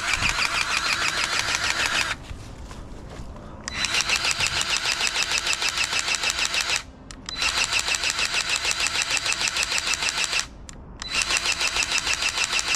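Battery-powered grease gun running in bursts, its pump pulsing rapidly, as it forces grease into a skid steer's zerk fittings. It stops briefly three times, about 2 s, 7 s and 10.5 s in, then starts again.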